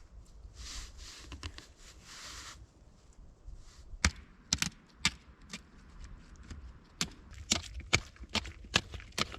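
Wood being chopped with an edged tool: a run of sharp knocks that starts about four seconds in and settles into about two or three blows a second near the end. Before it come two brief rustling crunches.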